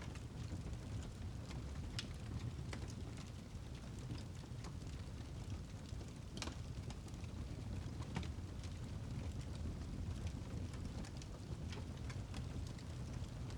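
Wood fire in a fireplace crackling, with irregular sharp pops, the clearest about two, six and a half and eight seconds in, over a steady low rumble.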